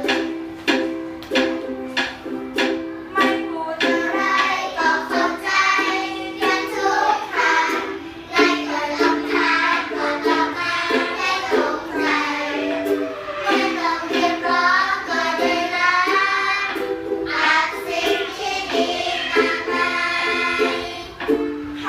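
A song sung over a steady, plucked-string accompaniment with no bass.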